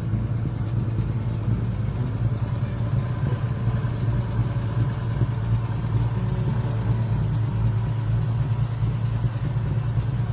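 1950 Chevrolet's 235 inline-six engine running steadily through its dual exhaust, with no revving.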